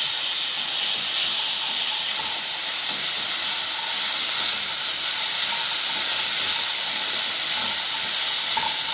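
Green peas frying in oil in a kadhai, sizzling with a steady hiss.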